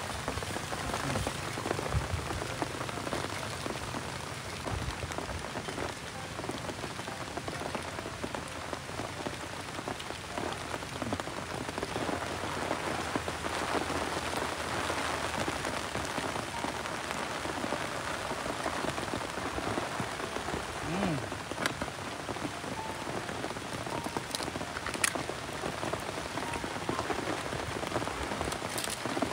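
Steady patter of rain falling on a surface, with a few light clicks in the second half.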